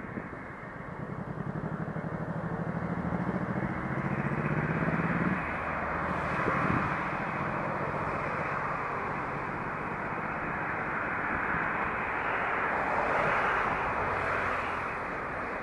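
A DB class 294 diesel-hydraulic locomotive approaches with a rapid, pulsing engine throb that grows louder. About five seconds in, the throb gives way to the steady rolling rumble of its freight train's wagons on the rails.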